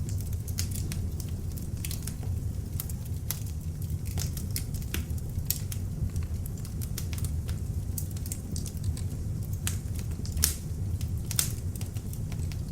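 Beech logs burning in an open fireplace: a steady low rumble of flames with frequent irregular sharp crackles and pops, two of them louder near the end.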